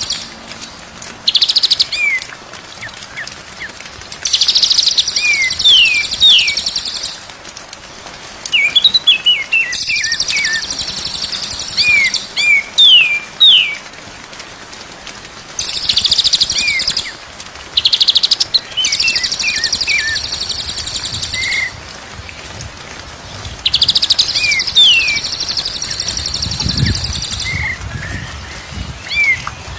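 Songbird song from a masteran tutor recording. Rapid, high buzzy trills lasting two to three seconds come round several times, and between them short falling whistled notes sound.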